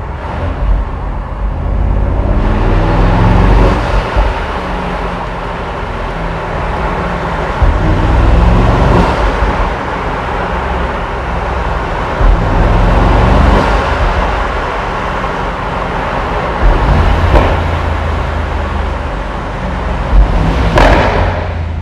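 Mercedes-AMG SL 63's twin-turbo V8 engine and exhaust pulling, rising and falling in pitch several times, loud and deep.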